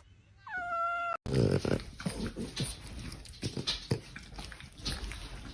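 A short meow from a cat, then a dog growling and grunting in uneven spurts, with scuffling clicks and knocks.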